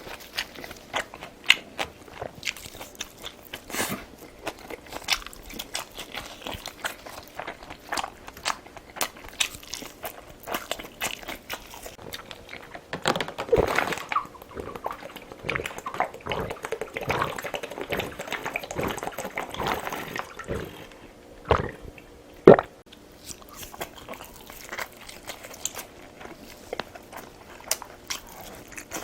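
Chewing and eating sounds, with many small mouth clicks. They grow busier and louder in the middle, then come two sharp knocks, the second the loudest sound here.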